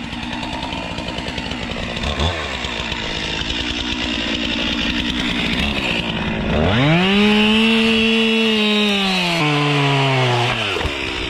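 Two-stroke chainsaw bucking an oak log. It runs at low speed at first, then revs up to full speed about two-thirds of the way in and holds there for a few seconds. Its pitch then sags in steps and falls back near the end.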